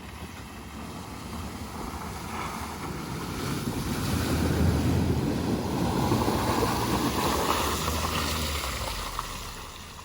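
Car driving through a shallow river crossing, water rushing and splashing against the car over the rumble of the tyres. It builds up, is loudest through the middle, and fades near the end.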